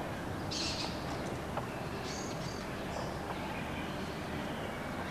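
Outdoor ambience: a steady hiss with a few short, high bird chirps in the first three seconds.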